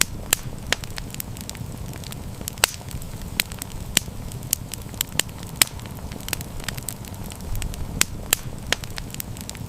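Wood campfire crackling, with sharp irregular pops and snaps over a steady low rumble of the flames.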